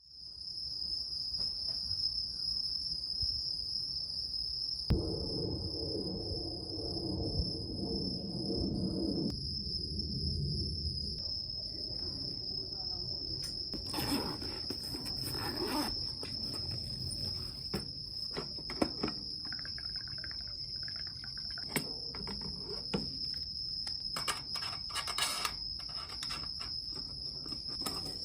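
Insects chirring outdoors in summer: a steady, unbroken high-pitched drone. It is joined by scattered clicks and knocks, more of them in the second half, and a low rumble for a few seconds early on.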